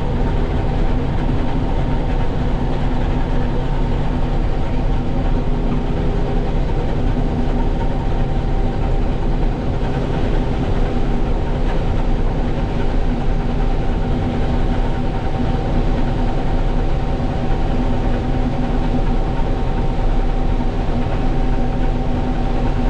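International Harvester 1440 combine running steadily while cutting soybeans: a constant mechanical drone with a few steady whining tones, machine noise from the engine and the threshing and header drives under load.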